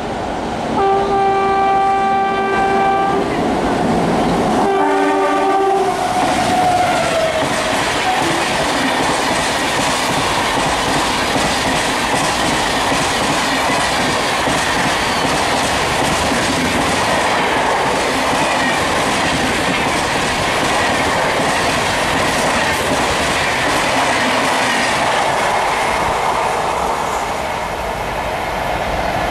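WAP7 electric locomotive sounding its horn in two blasts as it approaches at speed, the second dropping in pitch as the locomotive passes. Then the long, steady rush and wheel clatter of its passenger coaches passing close by, easing briefly near the end.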